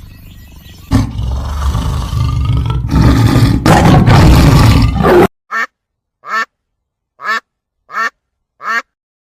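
Animal calls: a loud, rough call lasting about four seconds, then five short calls about two-thirds of a second apart.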